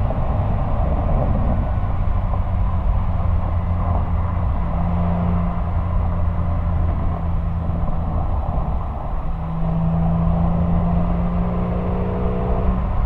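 Exhaust of a 1999 Porsche 911 Carrera (996) and its flat-six engine, heard from a microphone right by the tailpipe while driving. It holds a steady drone over wind and road noise, with a brief dip about nine seconds in before the drone resumes slightly higher.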